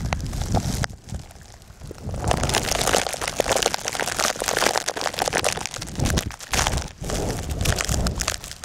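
Blizzard wind buffeting the microphone in gusts, with a dense crunching crackle over it that is loudest from about two seconds in until just before the end.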